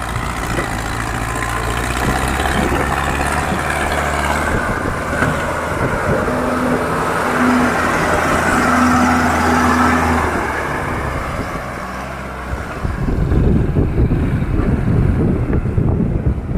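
Diesel tractor engines running steadily under heavy pulling load. About thirteen seconds in the engine note gives way to wind buffeting the microphone.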